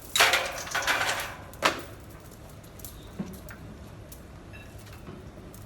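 Heavy metal parts scraping and clattering for about a second, then a single sharp knock and a fainter tap, as a heavy load such as an engine is shoved into place by hand.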